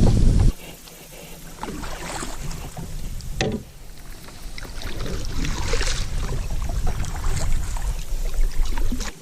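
Wind and water noise on a kayak with scattered knocks and clicks. A loud low rush of wind on the microphone cuts off about half a second in, and there is a sharper knock a little after three seconds.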